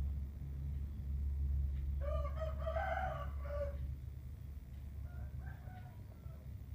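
A rooster crowing once, about two seconds in, followed by a fainter call near the end, over a steady low hum.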